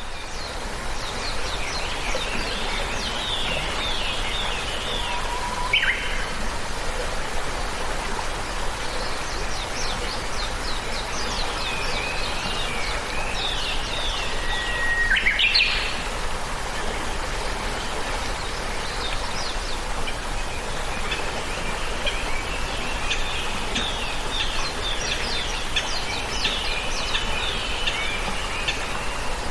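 Several birds chirping and twittering in quick runs of short notes, with a few clear whistled notes, over a steady background hiss.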